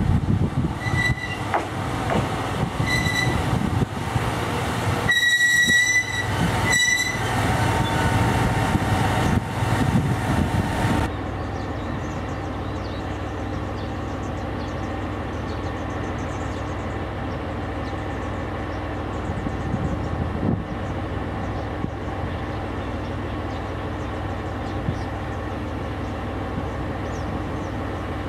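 KiHa 121 diesel railcar moving slowly through the station. Its engine and running gear are loud, with several short high-pitched tones and one lasting about a second. About eleven seconds in, this cuts off suddenly to a quieter, steady trackside background.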